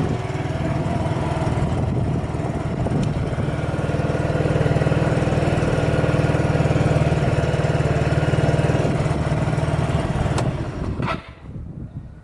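Carbureted Yamaha Majesty 125 scooter's single-cylinder four-stroke engine idling steadily through a DCR stainless-steel muffler, running without abnormal noise. About eleven seconds in there are a couple of sharp clicks and the engine cuts off.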